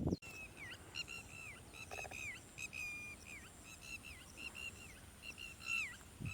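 A small bird calling over and over: short, clear chirps, many ending in a quick drop in pitch, several a second. A brief low thump at the very start.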